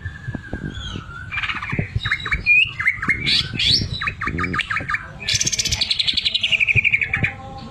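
A cucak ijo (green leafbird) singing: a long, slightly falling whistle, then a quick run of varied chips and notes, ending in a rapid rattling trill about two seconds long that falls in pitch, the mimicked 'sewing machine' (mesin jahit) phrase that keepers prize.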